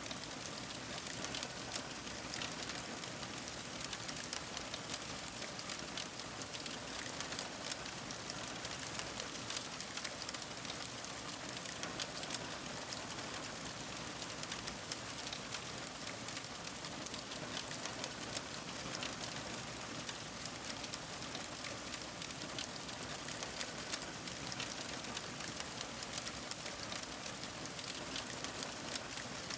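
Fire crackling: a steady hiss dotted with many small, sharp pops and snaps.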